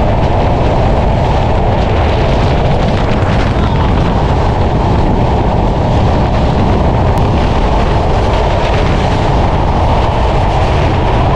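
A moving Sundarban Express passenger train heard from its open carriage door: a steady, loud rush of wind and running noise from the train, with wind buffeting the microphone.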